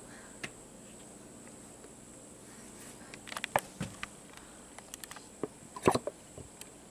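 Scattered light clicks and knocks of objects being handled, clustered in the second half, over a faint steady hiss.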